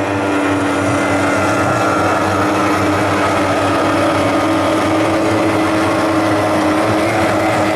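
Several racing outboard hydroplanes running flat out together, their engines making a steady, overlapping high-pitched drone, with some pitches sliding slightly lower as boats pass.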